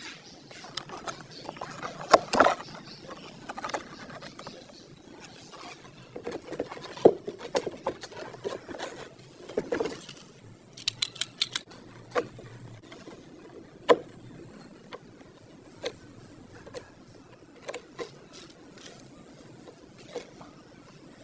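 Irregular clicks, taps and short scraping sounds of small parts being handled and worked on, with a quick run of sharp clicks about eleven seconds in.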